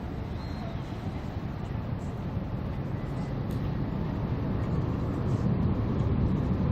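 Low, steady rumble of a large river vessel's engine, growing gradually louder as it draws nearer.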